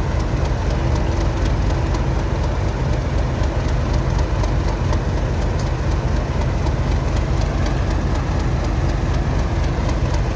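Class 37 diesel locomotive's English Electric V12 engine idling steadily while standing.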